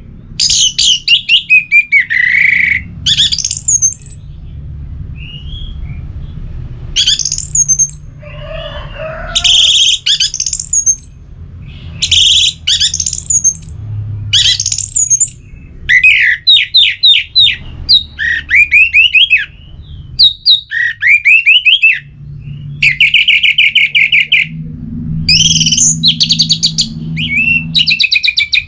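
Orange-headed thrush singing: loud, varied phrases of rapid chirps, trills and sweeping whistles, broken by short pauses.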